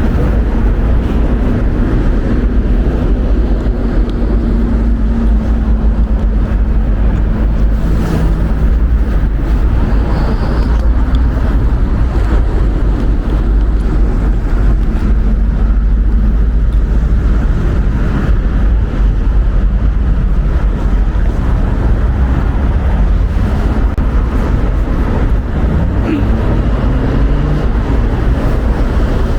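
Strong wind buffeting the microphone in a steady low rumble, with vehicle engines running faintly underneath and one engine rising in pitch about 26 seconds in.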